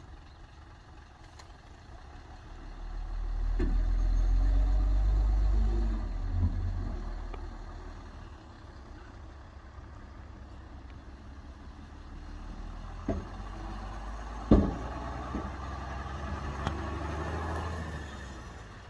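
Heavy diesel earthmoving machinery working: a low engine rumble swells under load for a few seconds, eases off, then rises again near the end. Two sharp knocks come about two-thirds of the way through, the second a loud bang.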